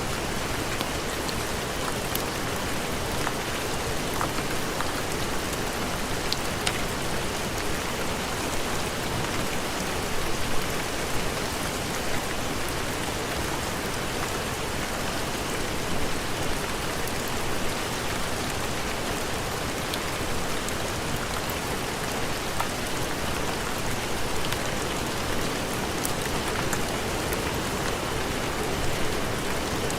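Heavy rain falling steadily, an even hiss broken by a few scattered sharp ticks.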